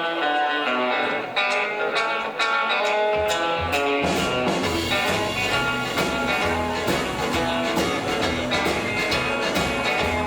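Live rockabilly band playing a song intro: a guitar plays a picked melody alone, low bass notes come in about three seconds in, and the full band with drums joins about a second later.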